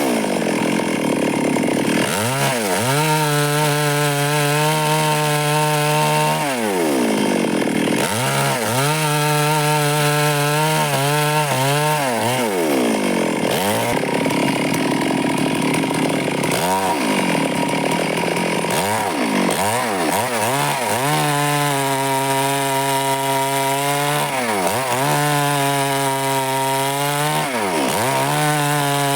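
Stihl two-stroke chainsaw cutting wood: the engine revs up and holds steady under load through each cut, then drops back and revs up again, over and over. A few quick throttle blips come about halfway through.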